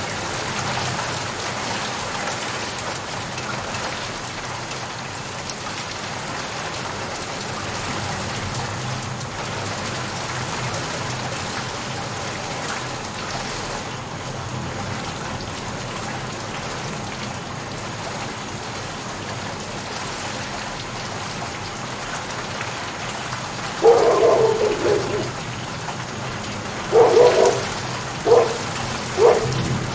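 Steady rain falling. In the last several seconds, four short, loud calls cut through it. The first lasts about a second, and three shorter ones follow about a second apart.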